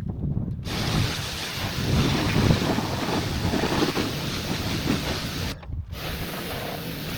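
Water spraying hard against the truck: a steady hiss with a low rumble that starts abruptly, cuts off for a moment about five and a half seconds in, then starts again, as a spray trigger is released and pressed.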